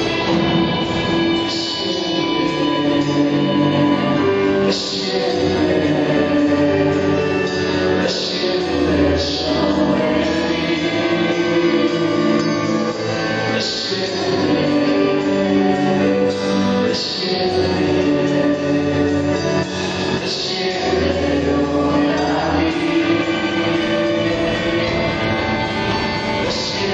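Christian worship song: sung vocals, sounding like several voices together, over full band accompaniment with guitar and drums.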